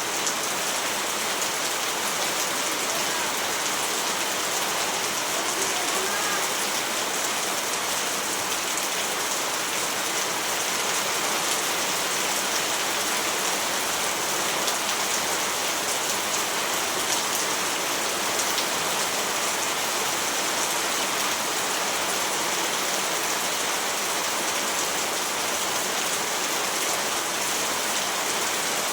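Steady, even rainfall: a dense hiss of rain falling on surfaces, with no thunder.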